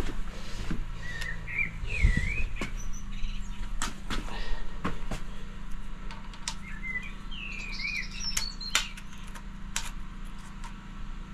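Small birds chirping in short rising and falling phrases, twice, over a steady low machine hum, with a few sharp clicks in between.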